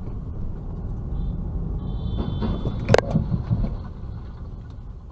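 Dashcam recording of a car on the road with a steady low road-and-engine rumble and a brief high-pitched tone. About three seconds in comes a sharp bang followed by a short clatter: a vehicle collision.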